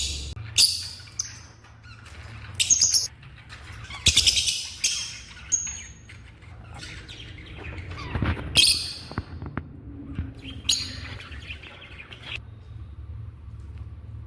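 African lovebirds giving short, shrill, harsh squawks in about half a dozen separate bursts, the agitated calls of angry birds.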